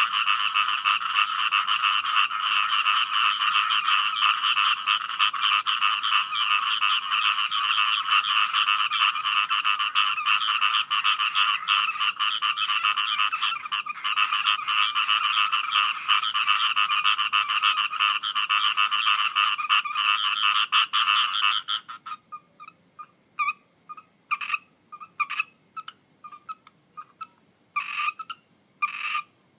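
A dense chorus of many frogs calling in rapid, overlapping pulsed calls. It stops abruptly about three-quarters of the way through, leaving a few scattered single calls.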